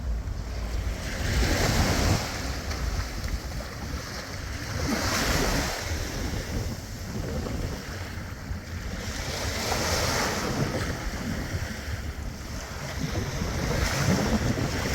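Sea waves washing and wind blowing across the microphone, a steady rush of noise that swells every few seconds.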